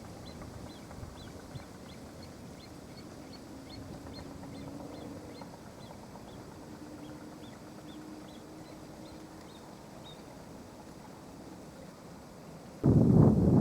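Faint outdoor ambience: a small bird chirping a high, even note about three times a second, and a distant engine hum that rises slightly in pitch through the middle. Near the end a sudden loud rushing noise cuts in.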